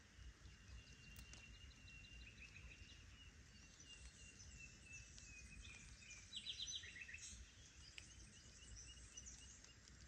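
Faint birdsong from several small birds: repeated chirps and trilling phrases, with a quick rattle of rapid notes about six and a half seconds in, over a low steady outdoor rumble.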